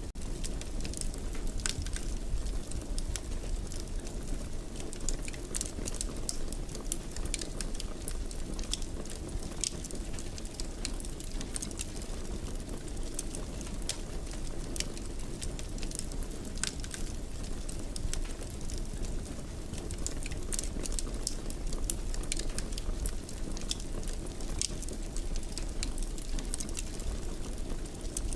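Wood fire burning in a fireplace: a steady low rumble with frequent sharp crackles and pops scattered irregularly through it.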